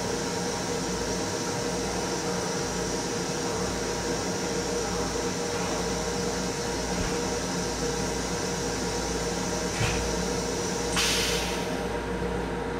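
Steady hum and low rumble of an M7 electric railcar, heard inside its small restroom. A short hiss comes about eleven seconds in.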